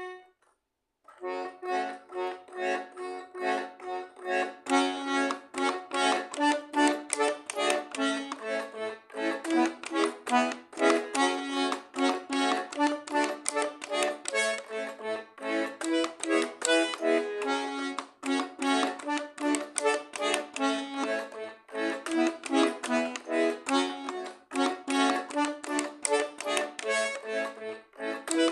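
Garmon, a Russian button accordion, playing a tune with several notes sounding together. The playing starts about a second in and continues without a break.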